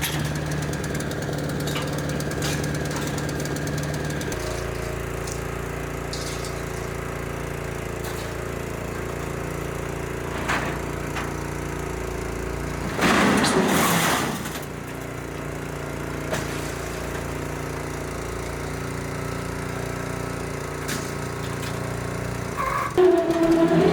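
A machine running steadily, its pitch shifting a few seconds in, with one loud, noisy burst a little past halfway; the steady running stops shortly before the end.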